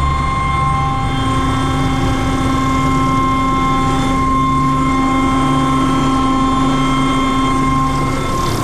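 MD500C helicopter turbine engine running steadily at ground idle with the throttle locked. A constant whine sits over a low drone.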